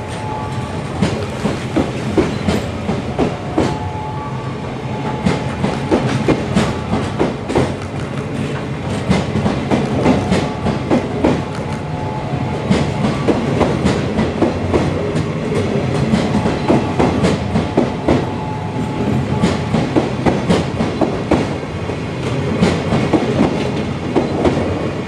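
Blue sleeper-express passenger coaches pulling out of a station, steel wheels clacking over rail joints in a quick, uneven run of clicks as car after car rolls past, ending as the last coach clears near the end.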